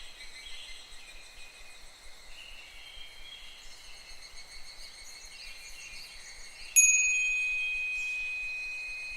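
Higurashi (evening cicadas) calling in a wavering chorus of high chirps, then about two-thirds of the way in a fūrin wind bell rings once, a single clear strike whose tone slowly fades away.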